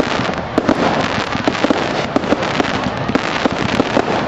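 Fireworks display in full swing: a dense, continuous barrage of rapid bangs and crackles.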